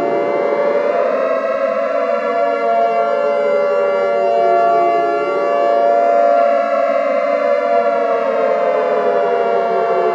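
Siren wailing over a steady held tone, its pitch sliding up, falling slowly to a low about five seconds in, then rising and slowly falling again.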